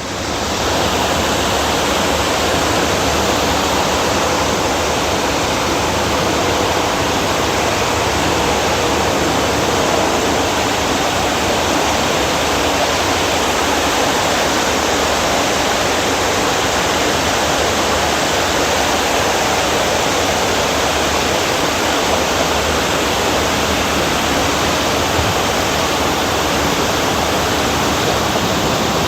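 Water cascading down a garden water wall: a steady, unbroken rush of falling water.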